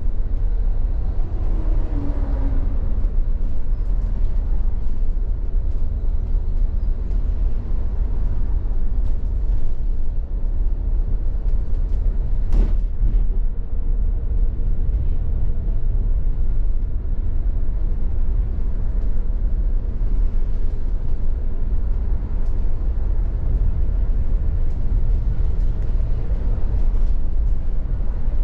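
Steady low rumble of outdoor city background, with a single sharp click about halfway through.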